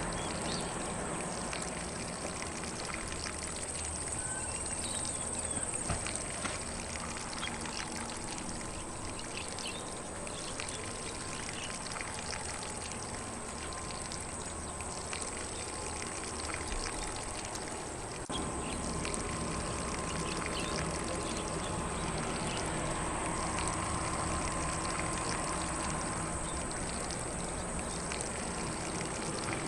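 Lawn sprinkler spraying water in a steady hiss over grass, with faint birds chirping in the background.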